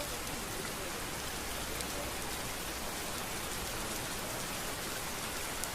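Steady rain falling on a street: an even hiss with scattered little drip ticks.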